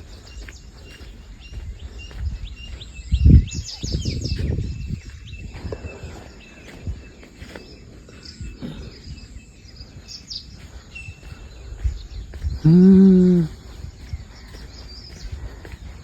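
Small birds chirping and twittering, with wind gusting on the microphone around three to five seconds in. About three-quarters of the way through, a brief low steady hum, voice-like, is the loudest sound.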